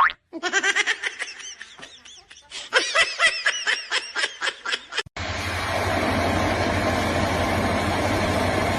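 Quick, high-pitched laughter in rapid repeated bursts, with a short break midway. About five seconds in it cuts abruptly to a steady rushing noise with a low rumble.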